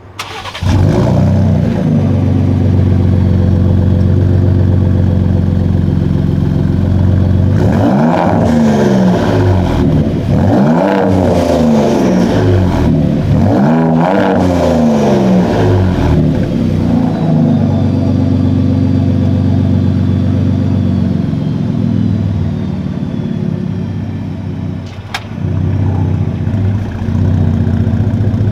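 Gen 2 Ford Raptor's 3.5-litre twin-turbo EcoBoost V6, through CVF downpipes and a Mountune cat-back exhaust, starting up and settling into a steady idle. Its revs rise and fall three times about eight to sixteen seconds in, then it idles again.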